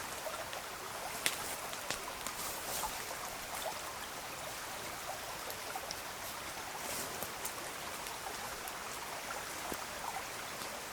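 Small river flowing: a steady rush of water, with a few faint sharp clicks scattered through it.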